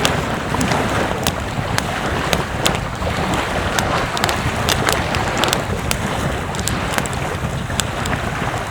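Wind buffeting the microphone over a steady wash of surf, with many irregular sharp crackling clicks scattered throughout.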